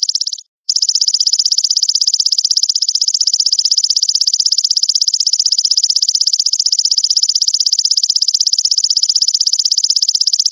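Call of a belalang mas, an insect of the grasshopper kind: a loud, high, rapidly pulsing buzzing trill that runs on evenly. It breaks off for a moment about half a second in, then resumes.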